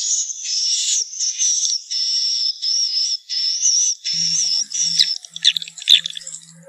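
Edible-nest swiftlet calls, the kind played as a lure sound for swiftlet nesting houses: a run of short, buzzy twittering chirps with a wavering whistle in them, each about half a second long, repeating with brief gaps. About four seconds in, a low pulsing hum joins, and the calls turn into quicker, sharper clicks and chirps.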